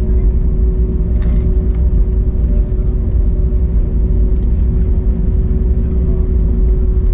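Cabin noise inside an Airbus A321neo on the ground around landing: a loud, steady low rumble with a constant engine hum, and a few faint clicks.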